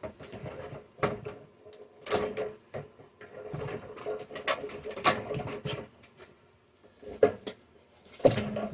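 Clicks and knocks of microwave parts being handled while they are taken apart, with the wiring being unplugged from the transformer: a scattered series of sharp metal clicks over a faint steady hum.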